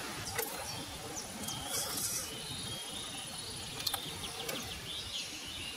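Woodland ambience: birds chirping over a low steady rumble, with a few sharp clicks.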